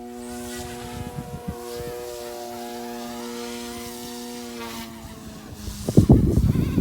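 Small electric RC helicopter hovering, its motor and rotor giving a steady, even whine. Near the end, loud irregular wind gusts buffet the microphone.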